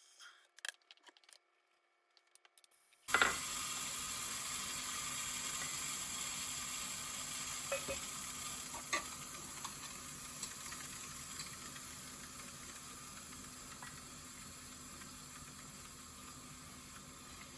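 Gaggia Classic Pro's steam wand opening with a sudden hiss about three seconds in, after a few light clicks, then steaming milk with a steady hiss that slowly weakens as the boiler's steam pressure falls.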